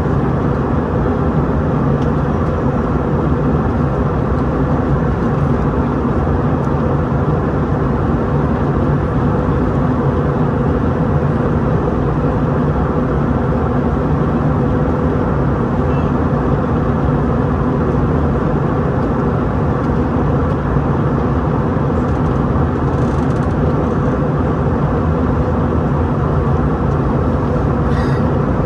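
Steady cabin noise of an Airbus A321-211 with its CFM56 engines running: an even rush of air and engine noise with a constant low hum, and no change in level.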